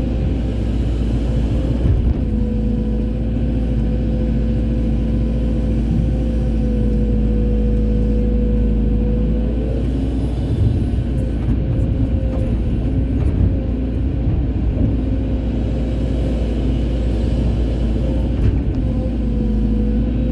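Hydraulic excavator's diesel engine running steadily under working load, with a steady whine over a deep rumble that wavers slightly in pitch as the machine works, and a few faint knocks.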